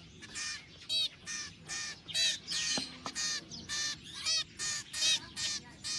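Hand-raised young birds giving a rapid run of shrill, repeated begging calls, about two to three a second, calling for food as they are being fed.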